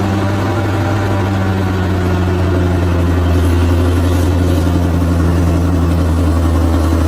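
Large bulldozer's diesel engine running steadily, a deep, constant drone.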